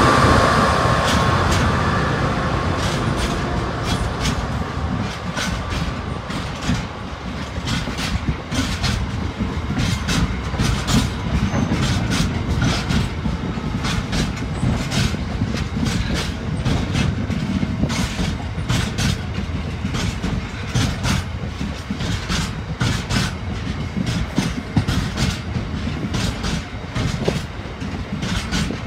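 A freight train of open box wagons rolls past at speed, with a steady low rumble and wheels clicking sharply over rail joints a few times a second. The engine of the Class 66 diesel locomotive at its head fades away over the first couple of seconds.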